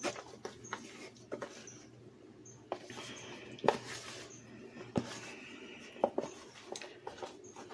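Hands tossing and pressing chicken liver and heart pieces in seasoned flour in a bowl: irregular knocks and clicks against the bowl with soft rustling, and short faint high squeaks about once a second.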